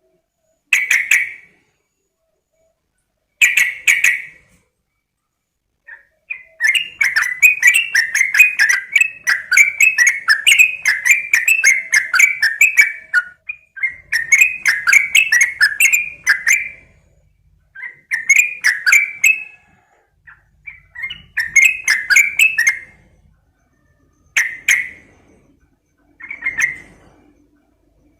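Yellow-vented bulbul (trucukan) calling: short bubbly bursts of notes, then about six seconds in a long run of rapid chattering notes for about seven seconds, followed by several shorter runs and single bursts.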